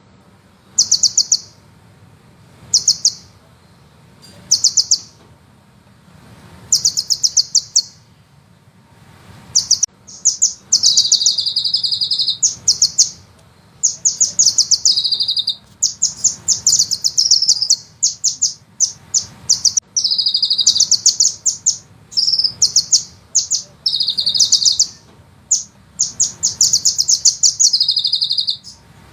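Sunbird song: rapid, high chattering trills, at first in short bursts about every two seconds, then from about ten seconds in near-continuous long rolling trills with some held high notes.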